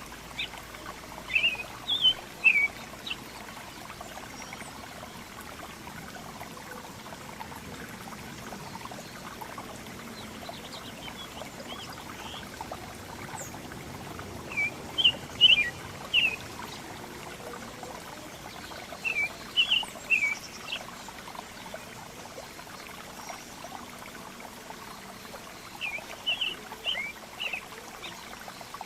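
Small songbirds giving short, high chirps in four brief clusters of a few notes each, separated by gaps of several seconds, over a steady background hiss.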